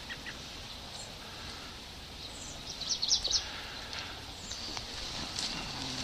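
Outdoor ambience with a few short, high bird chirps, most of them about three seconds in.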